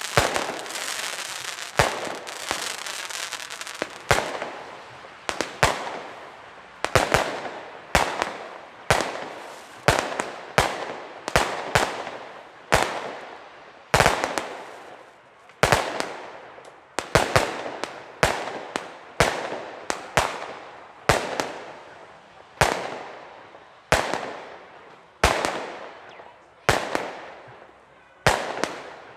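Weco Pyro Concept 905 compound firework battery (category F2) firing shot after shot, each a sharp bang that dies away, about one to two a second. Dense crackling fills the first few seconds.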